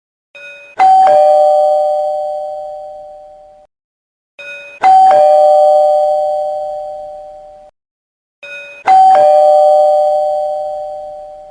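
Two-note doorbell chime going ding-dong three times, about four seconds apart. Each chime steps from a higher note down to a lower one and rings out slowly, with a short faint sound just before it.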